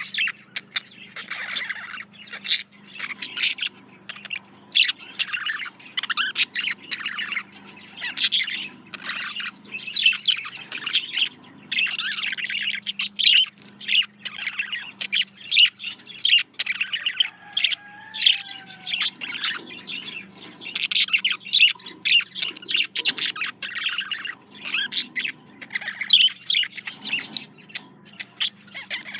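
Male budgerigar warbling its courtship song to a female: a fast, unbroken chatter of chirps and clicks.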